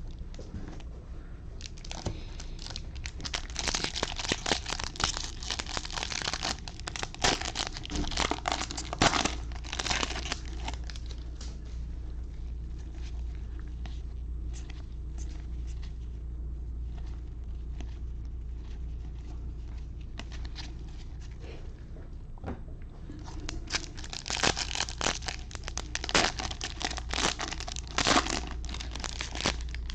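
Plastic foil wrappers of Bowman baseball card packs crinkling and tearing as they are opened and crumpled, in two busy spells: one near the start and one near the end, with quieter handling in between.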